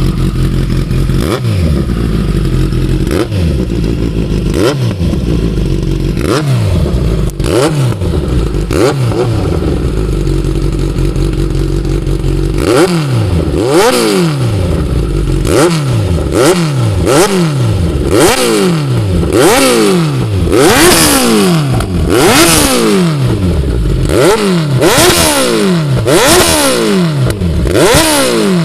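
Kawasaki Z900 inline-four idling through an SC Project CRT 4-into-1 full exhaust and being revved in quick throttle blips, each rising and dropping back to idle. The revs come a few seconds apart at first, then faster and louder, about one a second, from about halfway through.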